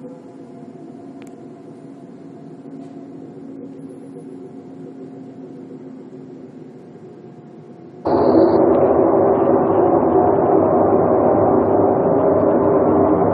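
Low droning hum made of several steady held tones, the kind of mysterious sound reported from the sky. About eight seconds in it cuts abruptly to a much louder, rougher rumbling drone.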